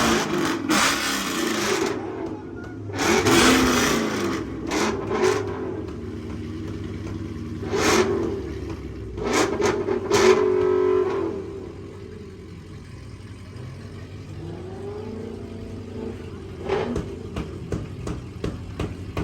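Car engines revving hard several times, the pitch climbing and falling with each rev, then settling to a lower steady running sound with a quick series of sharp pops near the end.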